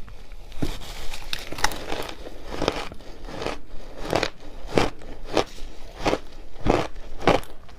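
Person chewing a chunk of refrozen shaved ice, a series of sharp crunches about one every half second.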